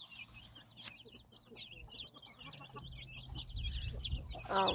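Baby chicks peeping: many short, high cheeps overlapping several to the second. A low rumble joins in the second half.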